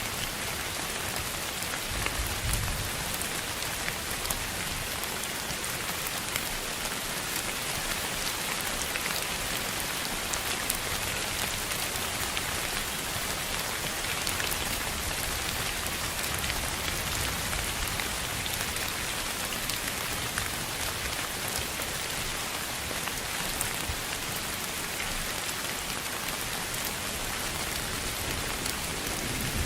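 Steady rain on a surface: an even hiss with scattered drop ticks, and a brief low rumble about two seconds in.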